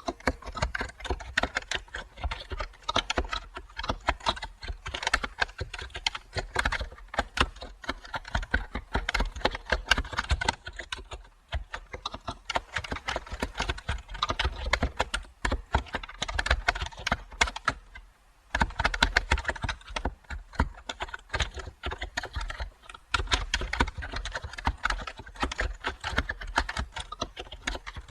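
Continuous fast typing on a computer keyboard, a dense run of key clicks that pauses briefly about 11 and 18 seconds in.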